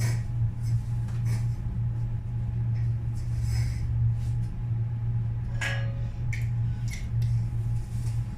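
Steady low hum, like a workshop machine or ventilation fan, with a few brief knocks and rustles on top.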